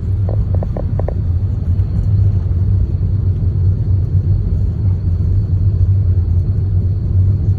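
Steady low rumble of a car driving on a snow-covered road, heard from inside the cabin. A few brief, faint tones sound about a second in.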